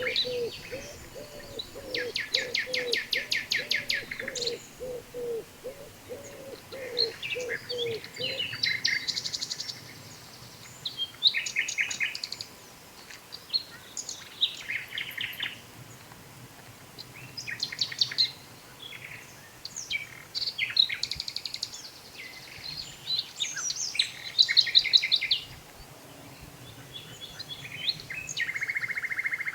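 A small songbird singing bursts of fast trills and varied phrases, with short pauses between them. Through the first eight seconds or so, a low note repeats about twice a second underneath.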